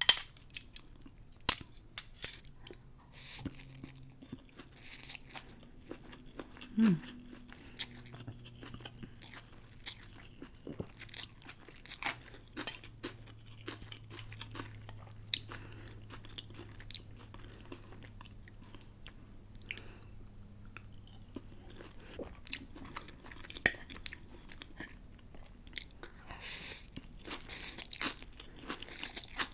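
Close-miked eating of pancit bihon (rice noodles with pork): chewing and crunching, with sharp utensil clicks near the start and a denser run of crunches near the end.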